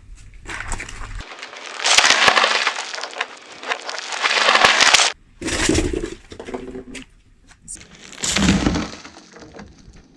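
Car tyre rolling over and crushing brittle objects: a long run of crackling and breaking that cuts off suddenly about five seconds in, followed by two shorter crunches.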